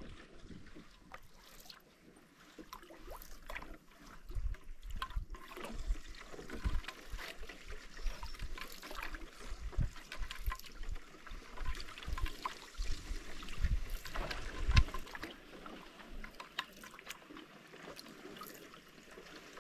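Paddling a canoe: water splashing and trickling off the paddle, with irregular small clicks and knocks.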